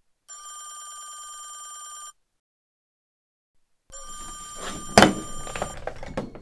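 Telephone ringing: two rings of about two seconds each with silence between them. A loud clack comes near the end of the second ring.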